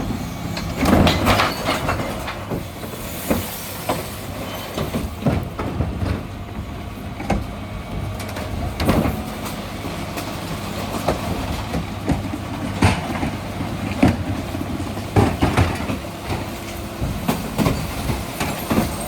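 Dennis Elite 6 refuse lorry running steadily, with repeated sharp clanks and knocks of bins and recycling on the split bin lifters.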